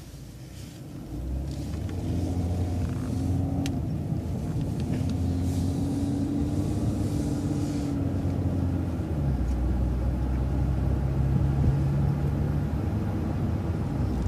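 City transit bus's engine and drivetrain pulling away from a stop, the engine note climbing about a second in, then an upshift to a lower, steady drone about nine seconds in.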